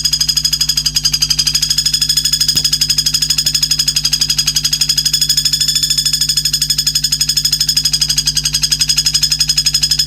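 A rapid, steady trill of high-pitched notes, pulsing about eight or nine times a second, from a bird-song training recording, over a low electrical hum.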